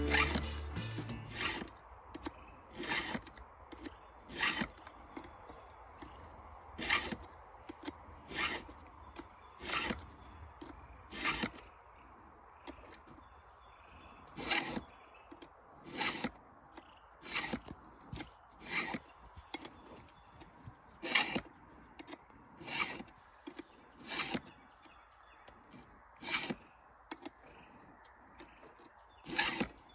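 Steel hand file drawn across the teeth of a chainsaw chain in single strokes, one every one to two seconds, about twenty in all. Insects drone steadily in the background.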